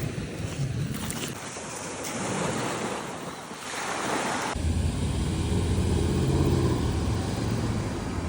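Surf washing on a beach, with wind buffeting the microphone. About four and a half seconds in, the sound changes abruptly and a heavier low wind rumble sets in.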